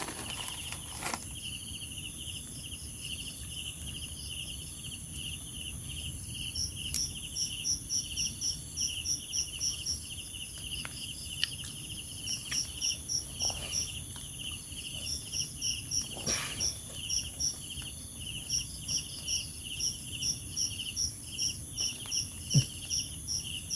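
Night insects calling, crickets among them: a steady high trill, a pulsing chirr beneath it, and from several seconds in a second caller giving repeated bursts of rapid chirps. A few faint knocks and rustles are scattered through.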